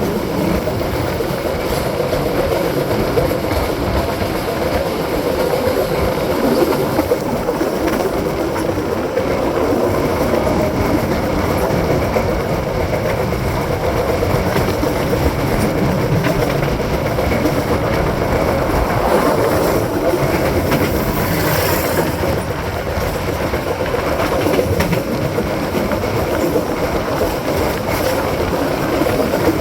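Train running fast: a steady rush of wind with the rumble and clatter of the wheels on the rails, and one brief sharper rush about two-thirds of the way through.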